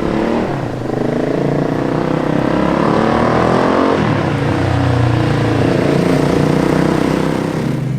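1985 Yamaha XT600's single-cylinder four-stroke engine running and revving, its pitch rising and falling through the middle of the clip.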